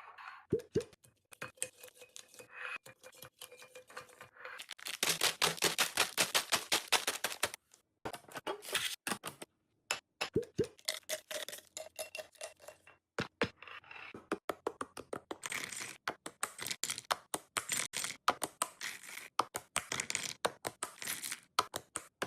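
Groceries and containers being handled and placed in a refrigerator: scattered clicks, knocks and scrapes, with a louder run of quick rustling strokes about five seconds in that lasts a couple of seconds.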